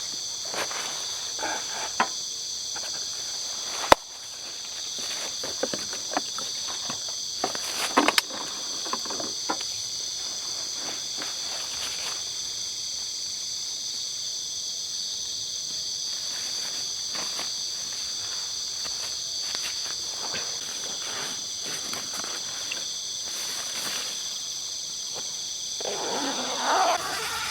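Steady, high-pitched chorus of forest insects, crickets or cicadas, trilling continuously on several pitches at once, with scattered sharp clicks and rustles. Near the end a louder, lower sound lasts about a second and a half.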